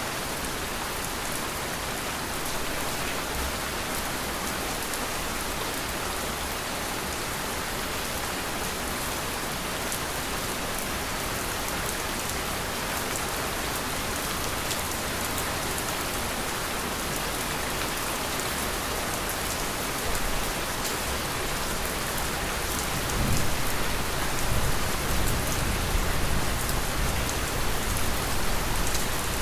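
Steady rain falling, a continuous hiss with patters of drops. About two-thirds of the way in, a low rumble swells beneath it and the rain grows a little louder.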